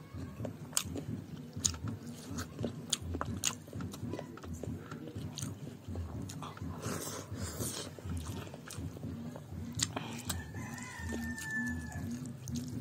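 Close mouth sounds of someone eating curry-soaked rice and chicken by hand: wet chewing and smacking with many sharp lip-and-tongue clicks, and a squelch of fingers squeezing the rice about seven seconds in.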